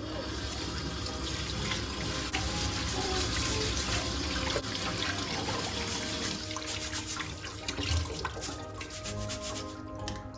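Water running from a tap into a sink, a steady rush that thins out near the end, over soft background music.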